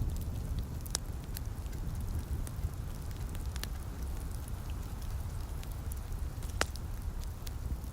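Wood fire crackling in a fireplace: scattered sharp pops every second or so, one louder pop near the end, over a steady low rumble and the soft hiss of light rain.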